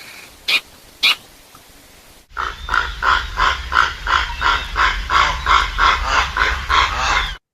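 Recorded animal calls: two short, sharp calls, then a different recording begins with a rhythmic series of harsh, grunting calls, about two to three a second, that cuts off abruptly near the end.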